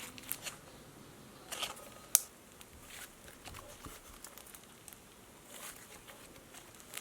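Scattered clicks and crinkly handling noises from slime and its plastic containers being handled, with a sharp click about two seconds in.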